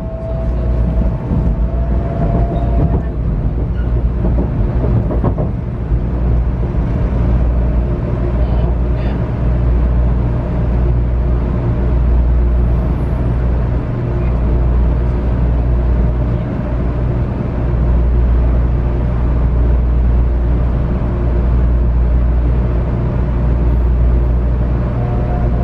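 Cabin of a JR West 500 series Shinkansen running on the line: a steady, loud low rumble of running noise. The whine of its Toshiba GTO VVVF inverter motors rises slightly and fades out in the first few seconds, and a new rising whine starts near the end.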